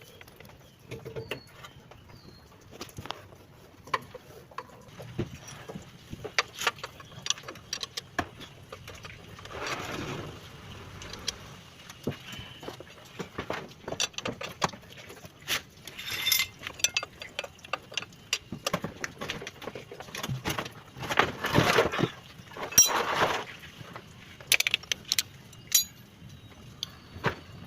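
Metal hand tools clicking and clinking against metal while working on a car's AC compressor clutch pulley, with irregular knocks and a few longer rattling bursts about ten seconds in and again near the end.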